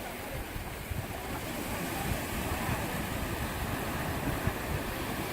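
Sea waves washing onto a sandy beach in a steady surf, with wind rumbling on the microphone.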